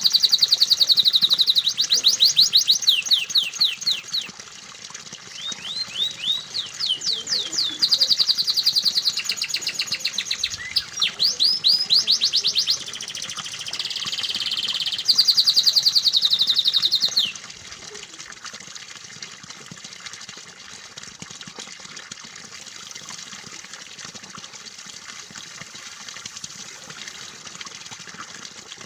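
Domestic canary singing in rapid repeated trills, phrase after phrase, stopping suddenly about 17 seconds in. Under the song, and alone after it, is a steady sound of running water.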